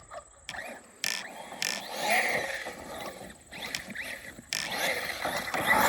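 Arrma Notorious 6S RC car's brushless motor whining up and down in pitch as it is driven hard, with its tyres hissing and scraping through dirt and grass. It starts about a second in, drops briefly past the middle, then comes back louder.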